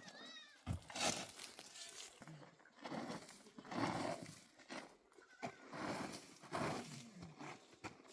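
Livestock calling, several separate calls one after another.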